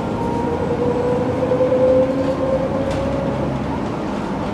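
MAN NG 313 articulated city bus running, a steady rumble with a whine that rises slowly in pitch for about three seconds, then fades.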